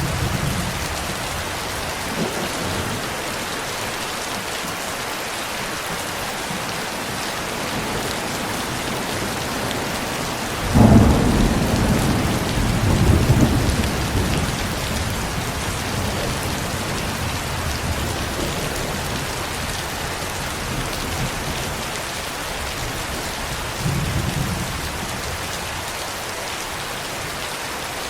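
Steady heavy rainfall with thunder: a loud crack of thunder about a third of the way in, rolling on for a few seconds, and fainter low rumbles near the start and near the end.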